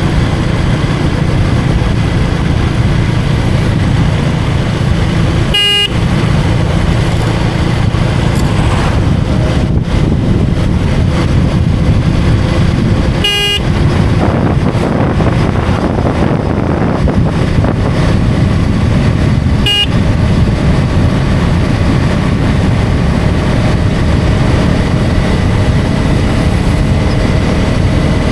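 Single-cylinder engine of a KTM Duke 250 motorcycle running steadily at road speed, with wind rush. Three short horn toots come several seconds apart.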